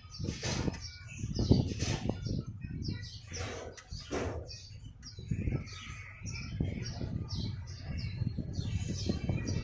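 Small birds chirping rapidly and repeatedly in the background, over a steady low rumble.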